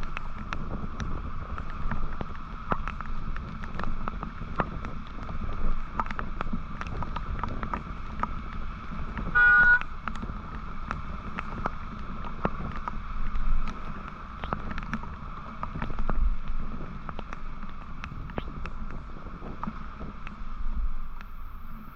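Motorcycle riding on a city road, with steady wind and road rush on the microphone and many small clicks and knocks. A vehicle horn honks once, briefly, about halfway through.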